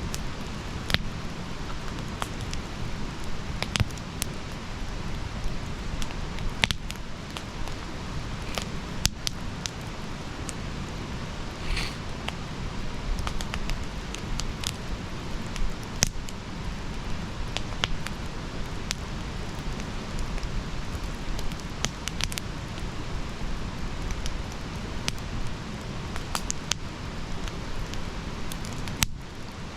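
Campfire burning: a steady low rush with scattered sharp crackles and pops from the burning wood, a few of them louder. The sound drops out briefly near the end.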